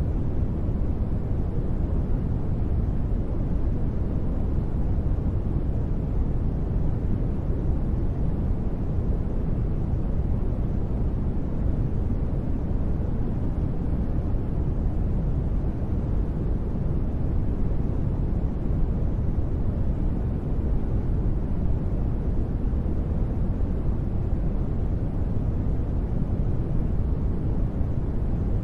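Steady, unchanging sleep-track noise, deep and rumbling, with most of its weight low down and little hiss at the top.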